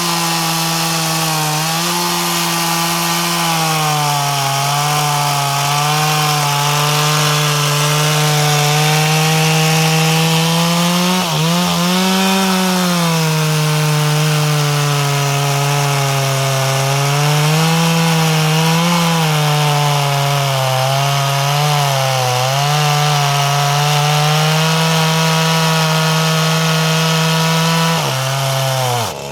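Freshly repaired two-stroke chainsaw running at high revs, cutting wood, its pitch sagging under load and picking up again. Near the end the throttle is let off and the engine falls away quickly toward idle.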